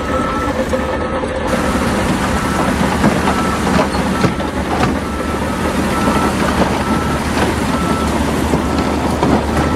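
Reversing alarm on heavy construction equipment beeping about once a second, over a running diesel engine with scattered knocks of machinery.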